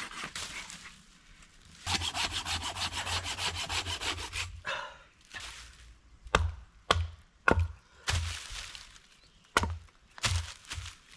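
Hand saw cutting wood with quick, even strokes for about three seconds. After a short pause come six sharp, separate wooden knocks.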